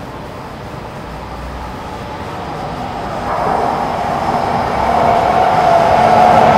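E926 East-i shinkansen inspection train approaching, its running noise growing steadily louder as it nears, with a steady low hum joining in over the last few seconds.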